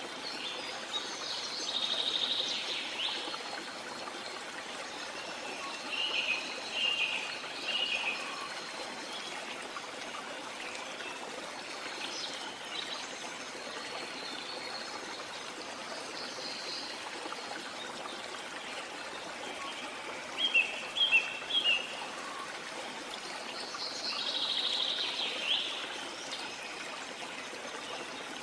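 Steady running water of a stream, with birds calling over it several times, including a quick run of sharp chirps about twenty seconds in.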